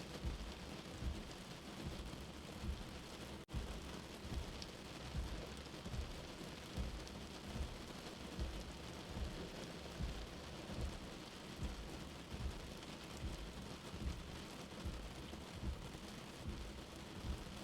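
Steady rain, heard as if from inside a shelter, with a soft low heartbeat thumping a little under once a second beneath it. The sound cuts out for an instant about three and a half seconds in.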